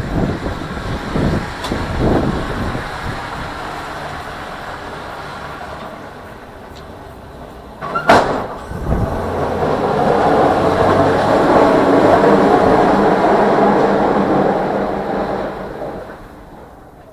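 Vehicle noise with a sharp knock about eight seconds in, after which a broad rushing sound swells and then fades away near the end.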